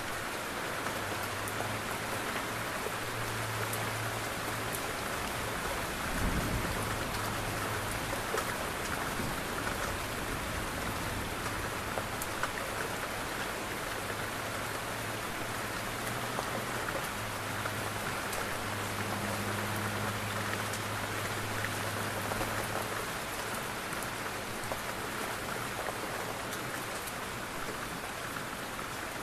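Soft rain falling steadily on a puddle and wet pavement, with many small ticks of single drops landing. A dull low thud comes about six seconds in.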